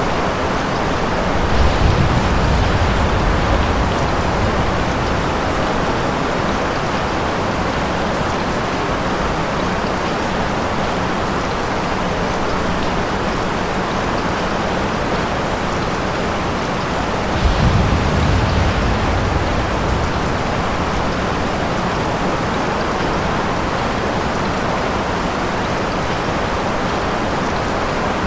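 Steady heavy rain, with two low rolls of thunder, one about two seconds in and another past the middle.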